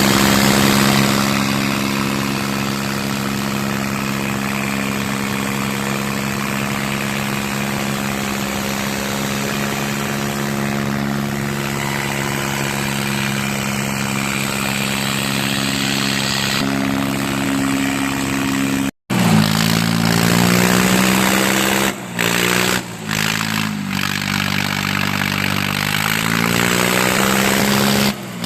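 Diesel tractor engines running hard under load, a steady drone. After a sudden break about two-thirds of the way through, the engine pitch wavers up and down, with a few short drops.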